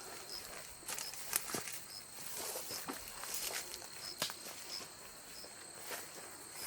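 Footsteps and scattered crackles of ground litter underfoot while picking up chestnuts, with a faint insect chirp repeating about every two-thirds of a second.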